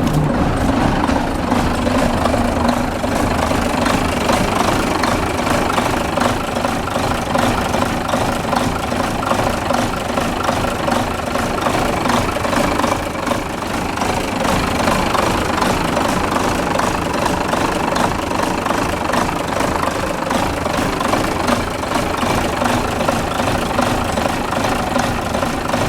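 Renault MIDR six-cylinder diesel truck engine idling, with the cab tilted open. It runs steadily and evenly after its injectors were repaired, which the owner hears as stable, quiet and calm running.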